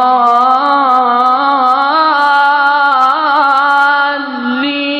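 A male Quran reciter's voice holding one long melodic note in the Iraqi maqam style, wavering through small ornamental turns and dipping in pitch about four seconds in.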